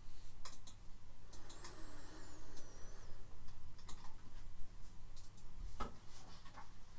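Room tone in a silent pause: a low steady hum with scattered faint clicks and ticks, and a faint wavering high whistle about two seconds in.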